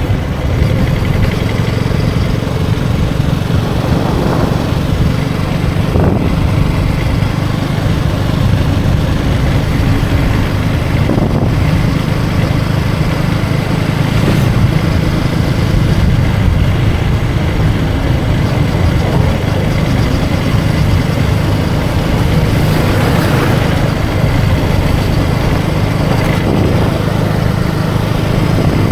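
KTM Duke 250 Gen3's single-cylinder engine running at a steady cruise, heard from the rider's seat, with wind and road noise over the microphone.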